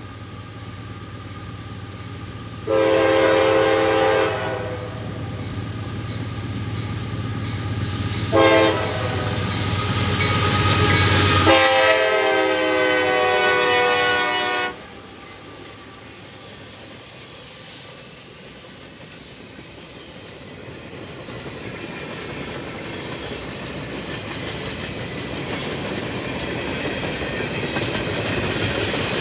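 CSX freight locomotive's air horn sounding a long blast, a short one and a long one, its engine rumble building as it approaches and dropping away suddenly as it passes during the last blast. Then the freight cars roll by with a steady clatter of wheels on rail.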